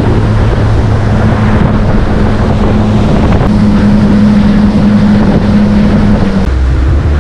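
Motorboat engine running under way, a steady note over heavy wind buffeting and water rush. About six and a half seconds in, the engine note drops lower as the throttle eases.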